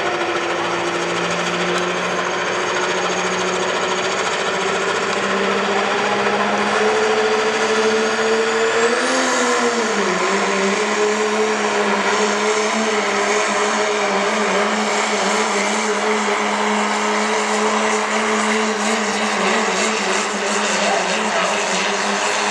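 Diesel pickup truck's engine running hard under load as it pulls the sled down the track, its pitch climbing steadily and a high turbo whistle rising about eight seconds in. The revs dip briefly and recover at about ten seconds, then hold high and steady.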